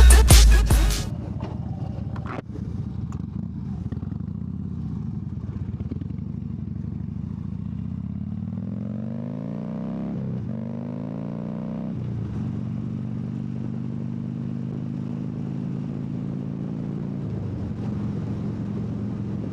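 Harley-Davidson V-twin motorcycle engine under way, heard from the rider's seat. The revs climb, then drop with gear changes about halfway through, and the engine then runs steadily at cruising speed. Music cuts off in the first second.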